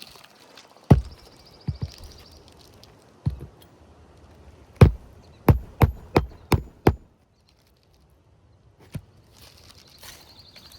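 Hammer driving a roofing nail through an asphalt shingle: a few scattered strikes, then a quick run of about six blows, and one last knock near the end.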